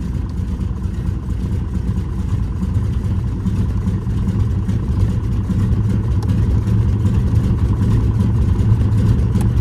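Cessna 195's seven-cylinder radial engine idling rough at about 500 RPM just after a cold start, firing on only about five of its seven cylinders while the rest have not yet caught. The steady low rumble grows a little louder a few seconds in.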